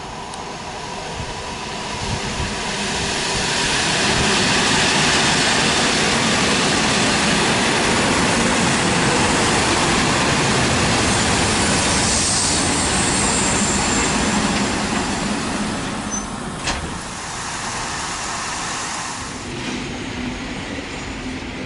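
Electric multiple-unit passenger train approaching and running past close by: its rolling noise builds over a few seconds, stays loud, then fades as it draws away, with a single sharp click about two thirds of the way through. Near the end a second electric train rolls by, quieter.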